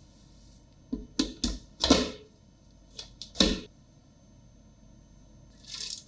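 Short knocks and clinks of kitchen utensils being handled: four in quick succession about a second in, then three more about three seconds in.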